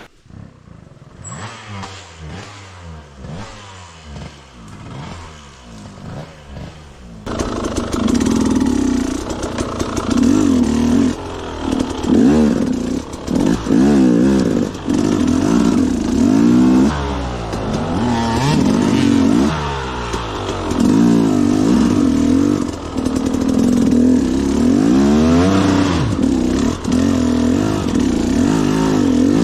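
Two-stroke KTM dirt bike engine running and revving up and down again and again while riding. It is fainter for about the first seven seconds, then suddenly much louder.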